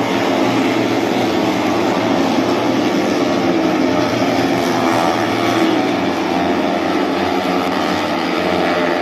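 MotoGP racing motorcycle engines running on track: a loud, steady engine drone.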